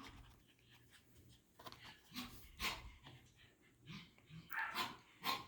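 Five-week-old Parson Russell Terrier puppies making faint snuffling and breathing noises, in short scattered bursts with quiet between them.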